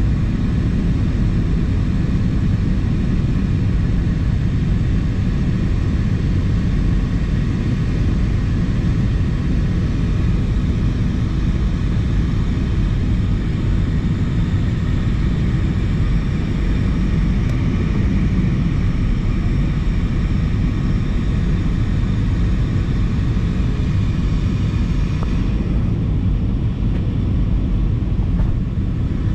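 Airbus A320 cabin noise from a rear window seat: a steady, loud rumble of engines and airflow. About 25 seconds in, the higher hiss drops off and the low rumble carries on.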